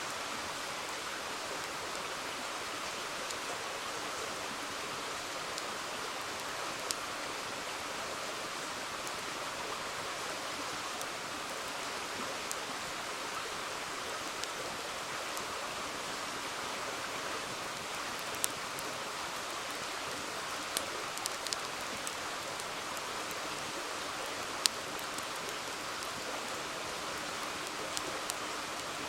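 River water flowing steadily, with the occasional sharp pop and crackle of a wood campfire, a few clustered around 21 s and the loudest about 25 seconds in.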